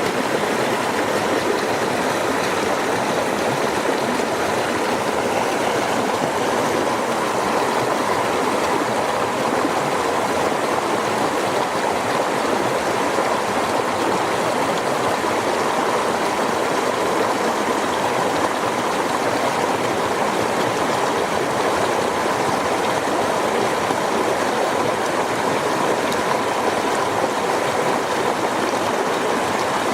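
River water flowing, a steady, unbroken rush with no single events standing out.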